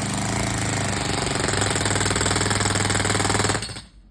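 Jackhammer hammering rapidly into thick concrete, with a steady engine hum underneath; both stop near the end.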